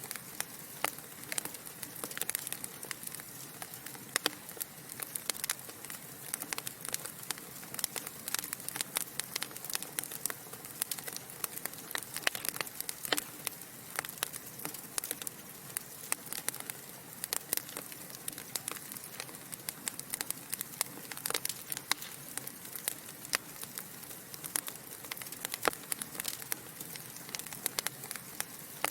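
Wood fire burning in a fireplace, crackling with frequent irregular sharp pops and snaps over a steady soft hiss.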